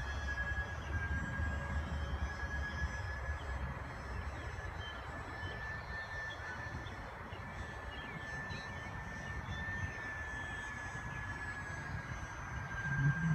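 Remote-control twin-engine Aero Commander model plane in flight: a steady high whine from its motors and propellers that dips slightly in pitch at the start and then wavers gently as the plane flies.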